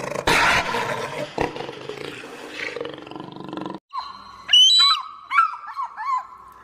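A big cat roaring, loud and rough for nearly four seconds, then cut off abruptly. After the cut, a run of about six short pitched animal calls.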